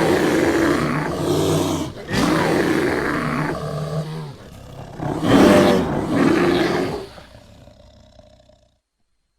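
Designed creature roar for a giant prehistoric bear: three long, rough roars in quick succession, the third the loudest, trailing off over about a second and a half.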